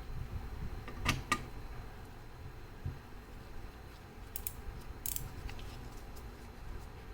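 Irregular sharp metallic clicks and taps from handling a grandfather clock movement's small parts: two close together about a second in and a few more around four to five seconds in, over a low steady rumble.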